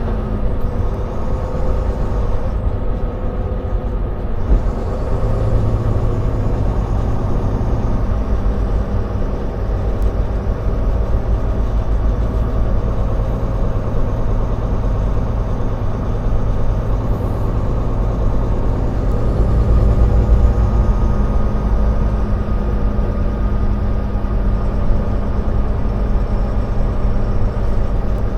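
Semi-truck tractor's diesel engine and road noise heard from inside the cab while driving, a steady low drone that swells a little about two-thirds of the way through.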